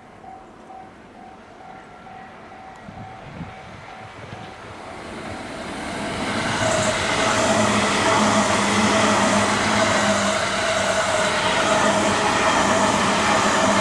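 Electric passenger train approaching and then passing close by: the rumble of its wheels on the rails grows over the first six seconds and then holds loud and steady as the carriages go past. A faint chime rings about twice a second in the first few seconds.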